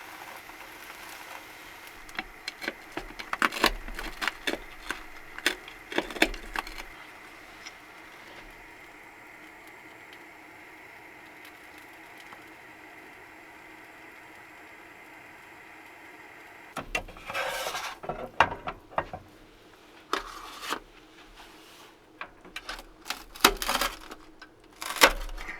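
Small objects being handled: bursts of clicks, knocks and rattles in two spells, one in the first few seconds and one in the last third, over a steady faint hum.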